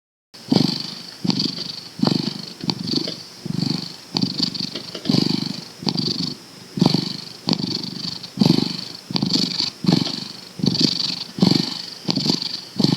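Domestic cat purring in a steady rhythm of pulses, about three every two seconds, starting a moment in after silence.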